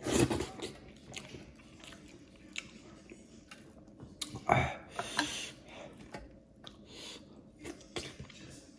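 Close-up eating sounds of a person chewing buckwheat dhido eaten by hand: wet chewing and mouth sounds, with louder bursts right at the start and again about four and a half seconds in.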